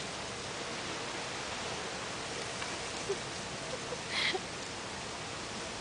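Steady, even rushing background noise, with a brief faint high call about four seconds in.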